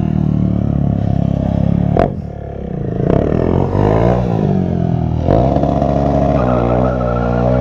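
KTM 690 stunt motorcycle's engine revving hard, its pitch rising and falling repeatedly, then held at high revs near the end, with a sharp crack about two seconds in.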